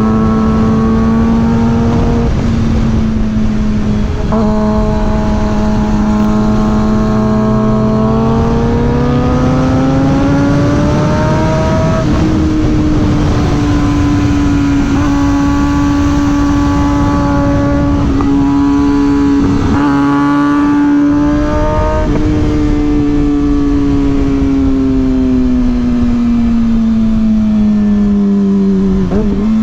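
Suzuki GSX-R 600 inline-four sport bike engine running under way. It holds a steady pitch for several seconds, rises smoothly as it speeds up about a third of the way in, holds the higher pitch, then falls slowly near the end. There are a few brief breaks in the note along the way.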